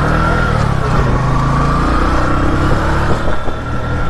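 Motorcycle engine running under way through city traffic, with road and wind noise. A steady high whine wavers slightly in pitch over it.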